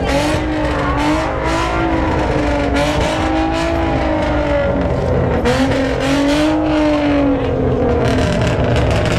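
A car's engine held at high revs, its pitch rising and falling in waves, under a haze of tyre noise as the car spins its wheels.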